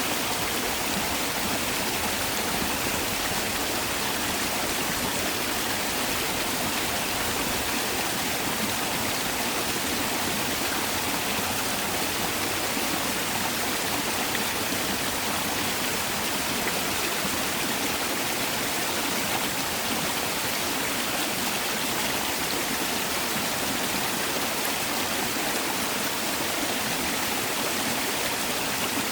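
Mountain valley stream rushing steadily over rocks, a continuous even flow of water without pauses.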